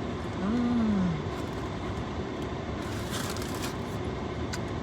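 Steady whoosh of a car's air-conditioning fan blowing. About half a second in comes a short hummed 'mmm' that rises and falls in pitch while she chews, and around three seconds in a brief rustle.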